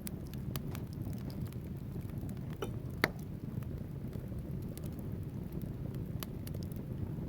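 Wood fire burning in a fireplace: a steady low rumble of flames with scattered sharp crackles from the logs, and one louder pop about three seconds in.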